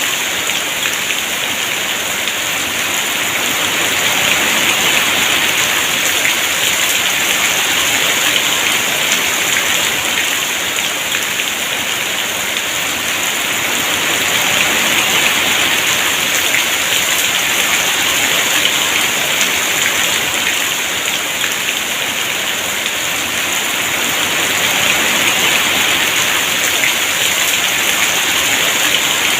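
Heavy rain pouring steadily in a dense hiss, swelling and easing slowly every ten seconds or so.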